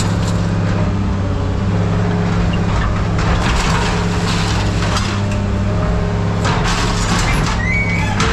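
Diesel-powered scrapyard machine running steadily, with irregular crunching and clanking of metal and a brief squeal near the end. The noise it makes is put down to one dry grease fitting, not the machine itself.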